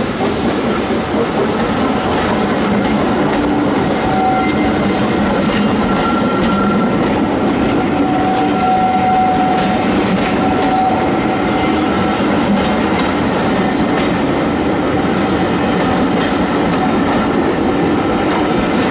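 Steam-hauled train running along the track, a steady loud rumble of carriages and wheels on the rails.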